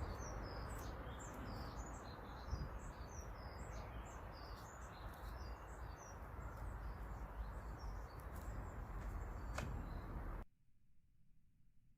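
Small birds chirping and tweeting in quick, overlapping short calls over a steady outdoor background hum. It all cuts off suddenly about ten seconds in.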